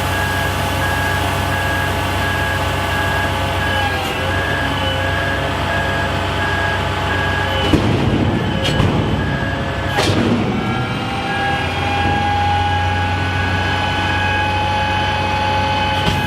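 Kenworth T880 hook truck running steadily, with a warning beep repeating at an even pace throughout. A few sharp metal clanks come about halfway through, and then a steady whine, rising slightly in pitch, joins the engine.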